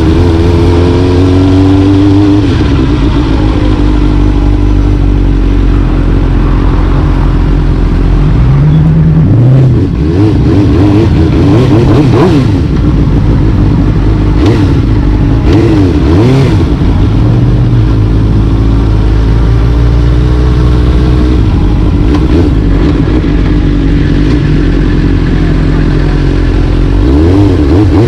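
Motorcycle engine running loudly under way, its pitch rising and falling several times as it accelerates and backs off through the gears.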